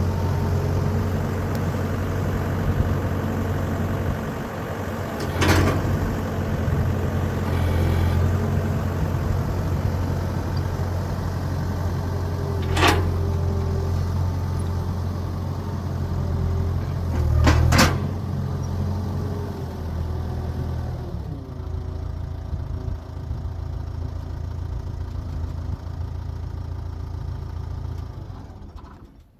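An engine running steadily at idle, with three sharp knocks about 5, 13 and 18 seconds in. The engine note lightens about 21 seconds in and fades out near the end.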